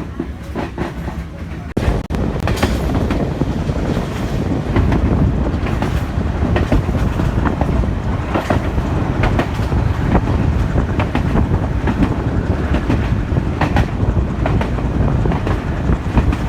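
Passenger train running on the track: a steady low rumble of the carriage with the wheels clacking irregularly over rail joints. It grows louder about two seconds in.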